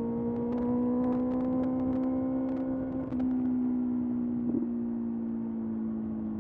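Kawasaki ZX-6R's 636 cc inline-four engine running under way, its pitch rising slightly at first, then easing after a brief change about three seconds in, with the revs slowly falling toward the end.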